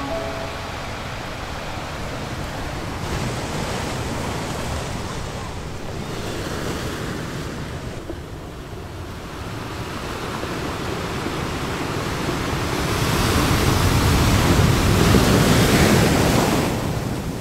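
Surf washing onto a sandy beach: a steady rush of waves that swells and grows louder over the last few seconds.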